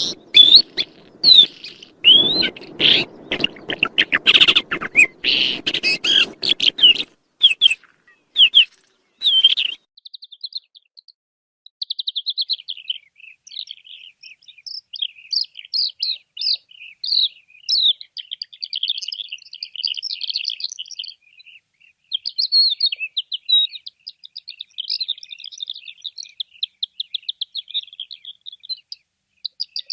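A songbird singing a long, rapid, varied song of chirps and buzzy trills. For the first several seconds the calls are mixed with knocks and rustling noise, which stop about seven seconds in; after that the song goes on alone.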